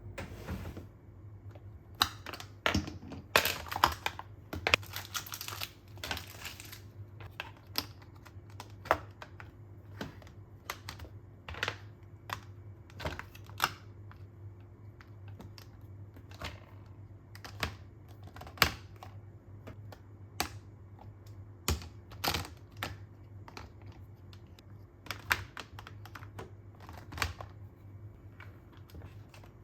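Irregular light clicks and taps of small objects being handled and set down, with a denser rustle from about two to seven seconds in, over a faint steady hum.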